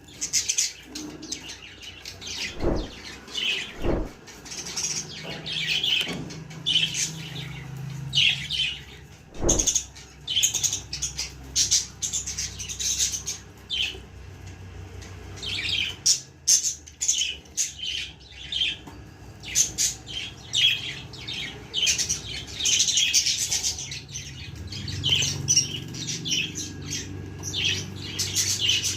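Budgerigars chirping, many short high chirps in quick succession, with a few soft thumps in the first third.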